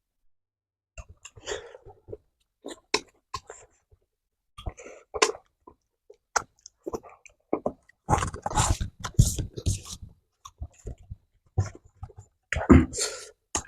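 Close-mic chewing of a mouthful of roasted cicadas: irregular crisp crunches and mouth noises, busier in the second half.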